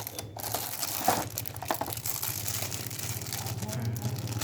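Plastic packaging crinkling and rustling as a hair clipper's box and accessories are handled and unpacked, over a steady low hum.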